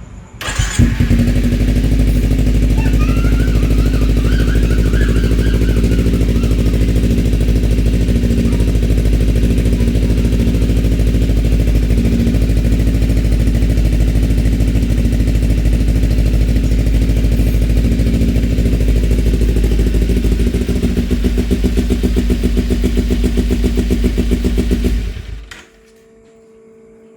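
Kawasaki Ninja 250 FI's parallel-twin engine, breathing through a 3Tech Ronin slip-on racing exhaust, starts about half a second in and idles steadily, then cuts off abruptly about two seconds before the end.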